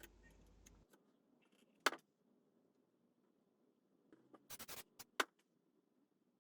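A few short, sharp clicks or taps over near silence: one just before two seconds in, a quick run of several around four and a half seconds, and one more about half a second later.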